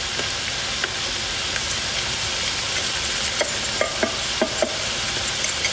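Ground meat and vegetables sizzling steadily in a frying pan, with a few short ticks about halfway through and later.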